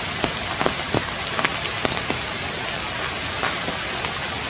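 Steady rain falling on leafy foliage, with many sharp drops hitting close by at irregular moments.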